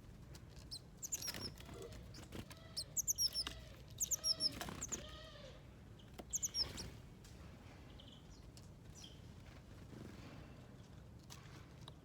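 Small birds chirping in several short bursts of quick, high, falling notes, with a lower run of repeated notes in the first half; it goes quieter for the last few seconds.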